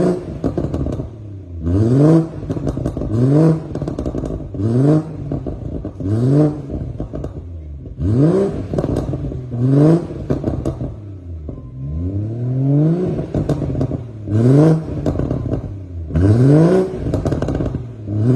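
BMW 340i's turbocharged B58 inline-six, fitted with an upgraded downpipe and a BATEC muffler, blipped about a dozen times in quick succession, each rev rising sharply and dropping back with crackles from the exhaust.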